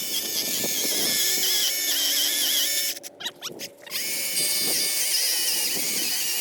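DeWalt cordless electric chainsaw cutting into a standing tree trunk for the felling notch, its motor running with a high, wavering whine. The whine breaks off for about a second partway through, then the cut resumes.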